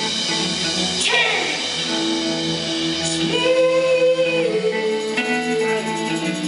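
Live band music with a woman singing long held notes over the band.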